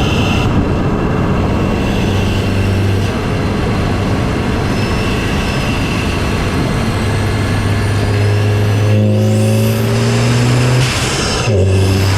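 Volkswagen Mk7 GTI's 2.0-litre turbocharged four-cylinder heard from the engine bay through a CTS cold air intake while driving: steady intake and engine noise with a faint turbo whistle. About nine seconds in the revs climb under a sharp rising spool whistle, then the sound breaks off briefly near the end before steady running resumes.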